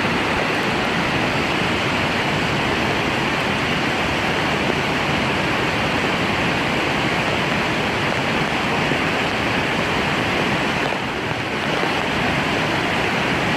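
Steady, loud rush of water from a rain-swollen stream overflowing in heavy rain.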